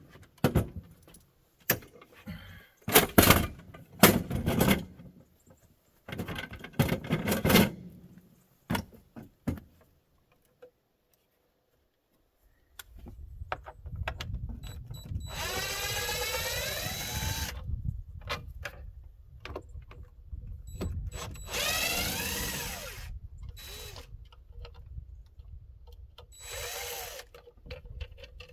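Cordless drill-driver working screws on a porch light fixture, running in three bursts, its motor pitch gliding up and down as it speeds up and slows. Before that, a string of clicks and knocks from handling the fixture.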